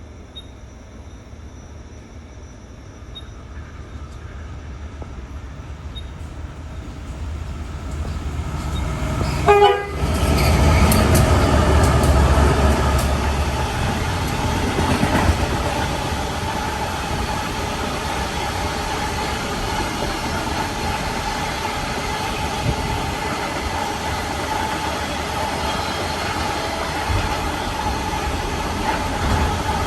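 A train approaching and passing close by. It grows louder for about nine seconds, sounds a short horn blast, then keeps up a steady rumbling run-past.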